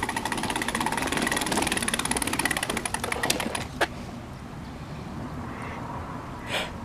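Small wheels rolling over pavement with a fast rattling tick that stops about four seconds in with one sharp click; quieter after that.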